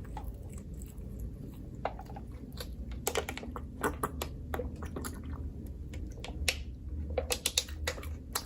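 Close-miked eating of pizza: irregular sharp wet mouth clicks and smacks while chewing, over a steady low hum.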